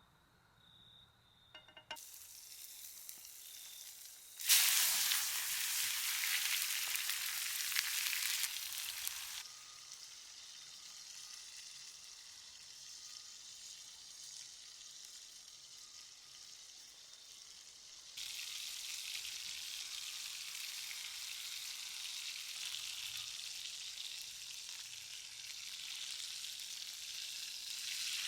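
Food sizzling as it fries in a pan. The sizzle comes in stretches that start and stop abruptly: loudest from about four seconds in to about nine, softer in the middle, and louder again near the end.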